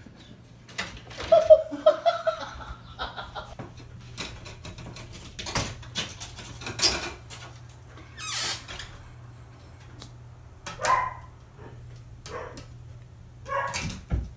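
A dog giving short yips and barks, a few seconds apart, with clicks and knocks in between.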